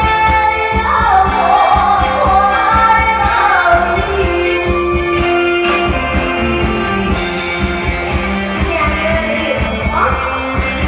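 A singer performing a pop song over a band backing track with a steady beat. The voice gives way to an instrumental passage partway through and comes back near the end.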